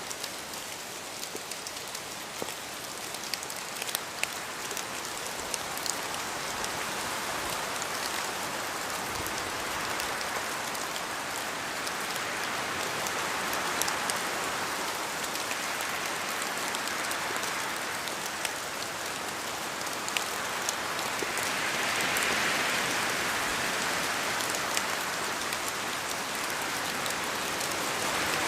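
Steady rain falling, with many individual drops striking close by. It swells louder in the second half.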